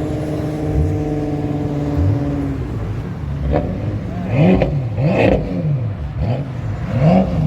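BMW M5 F10's twin-turbo V8 through an Akrapovic exhaust, running steadily and then revved in about five quick blips that each rise and fall, starting about three seconds in.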